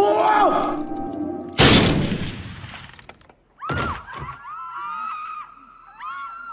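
A sudden loud crash with a shattering, breaking noise that dies away over about a second, followed by a string of short chirping, warbling calls.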